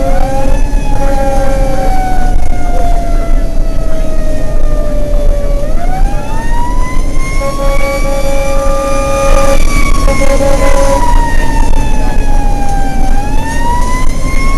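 Fire truck's mechanical siren wailing, winding up in pitch and slowly coasting down, three times over the truck's running engine and road rumble. Short bursts of a second steady, horn-like tone sound twice.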